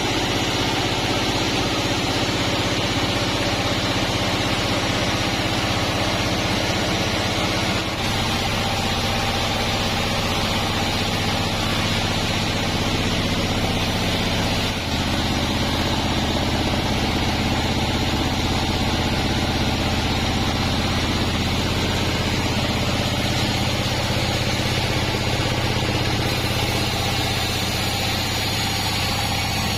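Sawmill bandsaw machinery running steadily: a low mechanical hum under a steady hiss, the hum shifting slightly about 8 and 15 seconds in.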